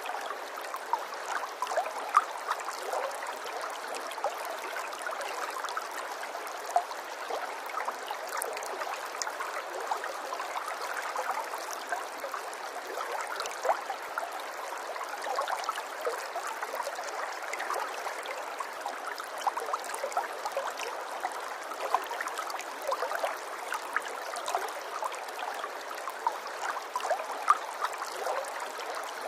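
Small stream of running water trickling steadily, with many little splashes and drips over an even rush.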